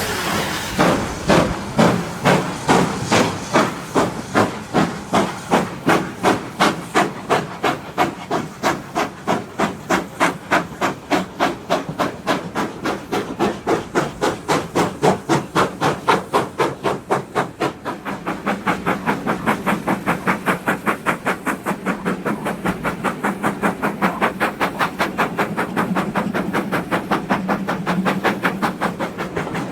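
Steam locomotive No. 9351, a GWR-style 2-6-0, working hard with a steady exhaust beat of sharp chuffs, about two a second and gradually quickening. About two-thirds of the way through, the beats become softer and faster over a steady low hum.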